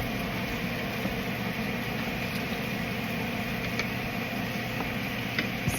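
A kitchen appliance fan running: a steady hum with an even hiss, and a few faint clicks.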